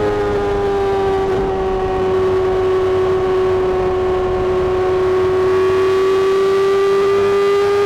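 Honda CBR600RR inline-four engine held at high revs through a Mivv aftermarket exhaust: a steady, high-pitched wail that sags slightly in pitch over the first few seconds, then slowly climbs again.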